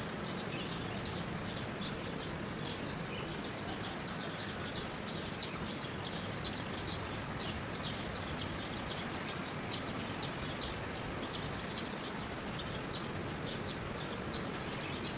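Birds chirping in short, rapid, high calls, several a second, over a steady hiss of outdoor background noise.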